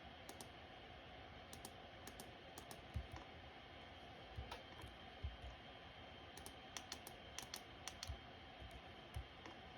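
Ceiling fans running at low speed, barely audible as a faint steady whoosh, with scattered light clicks and a few soft thumps at irregular moments.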